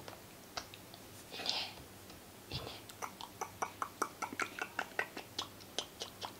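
Light, sharp clicks and taps, a few a second, building from about halfway through, after two soft breathy sounds.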